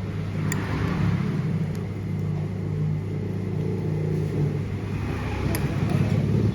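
Motor vehicle traffic on a street: engines running as a steady low rumble, with two faint ticks.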